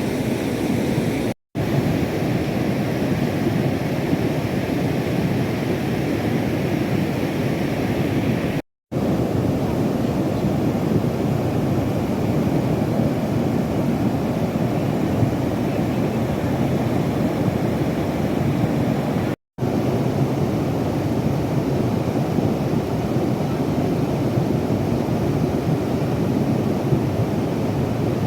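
Floodwater rushing down a swollen stream channel as a steady, loud, even rush. It cuts out to silence three times for a moment, where separate shots are joined.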